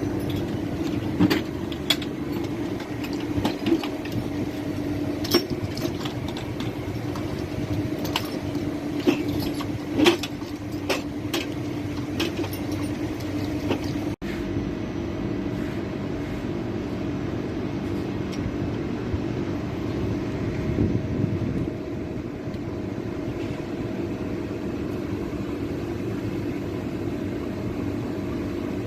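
A motor running steadily with a low, even hum. Scattered clicks and taps come in the first half, and the sound cuts out for an instant about halfway through.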